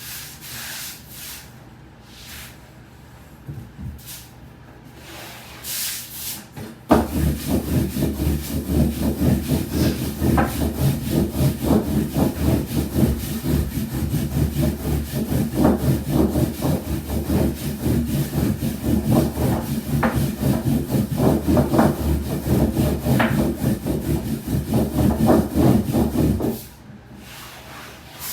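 Quiet handling of tools and dough, then from about seven seconds in a steady run of quick, rhythmic wooden strokes from soba-making tools working buckwheat dough on a wooden board, stopping a couple of seconds before the end.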